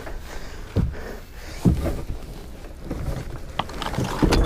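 Water sloshing and splashing in and around a swamping 10-foot Sun Dolphin Destin plastic kayak, with irregular hollow thuds against the hull about once a second.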